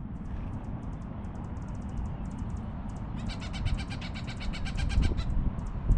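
A bird calling from just overhead near its nest: a rapid series of short, evenly spaced notes, about ten a second, for about two seconds midway, with faint sharp ticks throughout.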